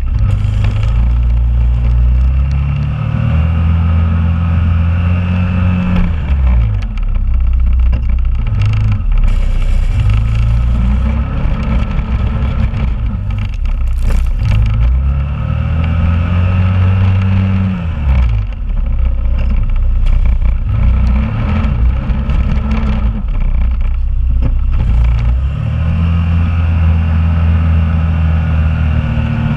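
2001 Honda Rubicon ATV engine working as it pushes a snow plow, its pitch climbing and holding for a few seconds, then dropping away as it backs off, over and over.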